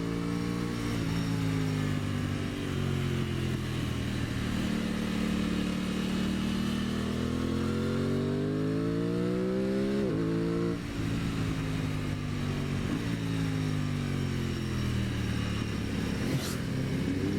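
2023 Aprilia Tuono 660's parallel-twin engine under way, its pitch rising and falling with the throttle, with a quick climb and sharp drop about ten seconds in.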